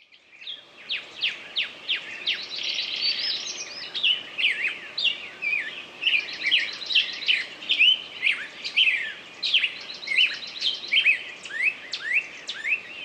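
Several songbirds chirping and singing together in quick, falling whistled notes, with short rapid trills now and then; the sound fades in at the start.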